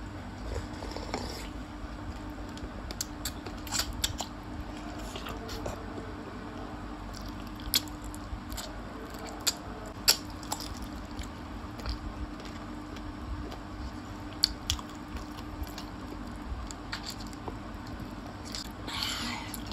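Close-miked mukbang eating sounds: wet chewing, sucking and biting on gravy-coated chicken feet, with scattered sharp clicks. A steady low hum runs underneath.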